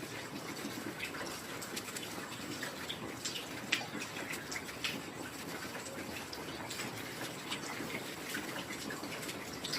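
Heavy rain falling steadily, a dense hiss full of scattered drips and patters, with one sharper drop about three and a half seconds in.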